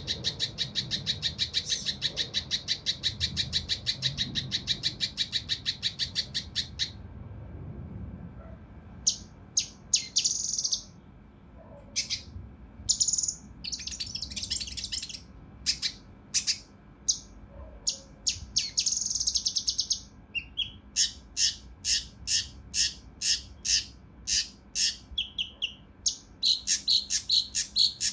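Kinoi (cucak rante mas) singing a harsh, rapid-fire song: a fast rattling series of sharp notes for about seven seconds, then after a short pause a mix of rough, high calls and chirps, ending in another run of sharp repeated notes.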